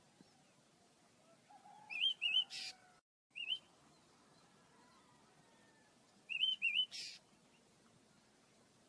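Small caged bird chirping: two bursts of quick up-and-down chirps about four seconds apart, each ending in a short harsh rasp.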